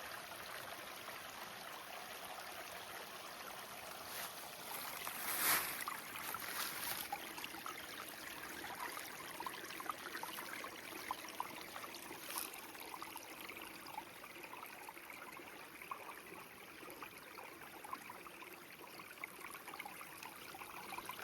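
Small creek trickling and babbling steadily over rocks, with a few brief crackles and knocks about four to seven seconds in.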